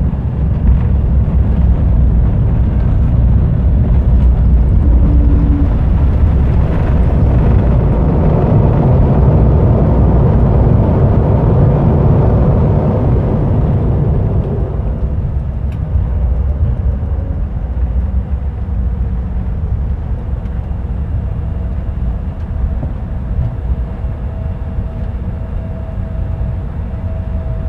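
Cabin noise of an Embraer E175 jet rolling down the runway after landing. A loud rumbling roar swells and then falls away about halfway through, typical of engines spooling up and back down, leaving a quieter steady hum as the aircraft slows. A faint steady whine comes in near the end.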